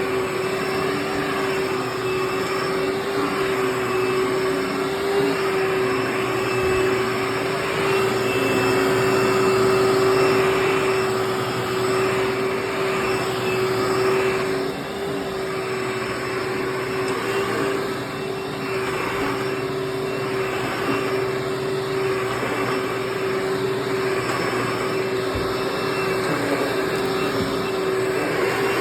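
Hoover WindTunnel Anniversary Bagless Twin Chamber upright vacuum (U5786-900) running continuously, a steady motor whine under a rush of airflow and brush noise that swells and eases a little.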